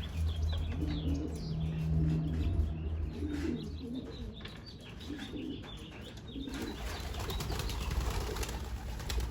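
Young racing pigeons' wings flapping as they take off and fly about, with a few soft pigeon coos, over a steady low rumble.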